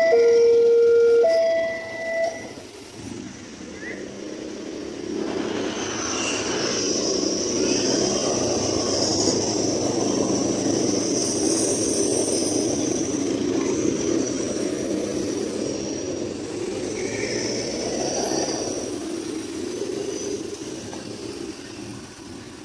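A loud two-tone signal alternating between a low and a higher note cuts off about two seconds in. Then a passing train's rumble of wheels on rail swells, holds with a faint high hiss above it, and fades away near the end.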